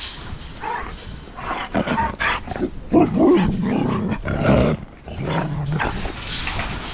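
Huskies in a kennel pen vocalising up close: irregular low, rough woofs and grumbles, loudest about three to five seconds in.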